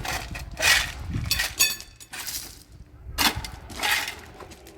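Hard objects clattering and knocking in several bursts, with a ringing metallic or glassy clink about a second and a half in.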